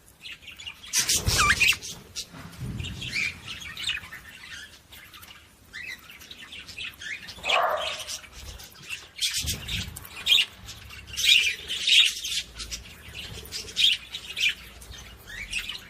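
Budgerigars chirping and chattering in quick, irregular bursts, with louder bursts of wing flapping as they bathe.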